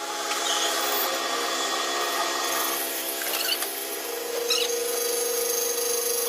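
A power tool or workshop machine running steadily while a tool scrapes and rubs against the gear being repaired, with a steady whine joining about four seconds in.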